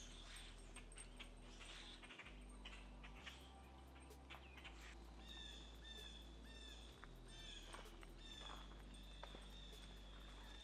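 Faint birds calling outdoors: from about halfway through, one bird repeats a short call over and over. Faint scattered clicks come before it.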